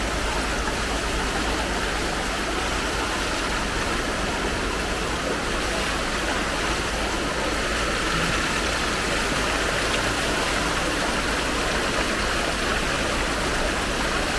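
Steady rush of fast-flowing floodwater, an even noise with no breaks.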